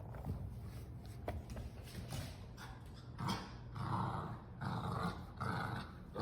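Cockapoo growling in play over a ball, in a run of short growls through the second half.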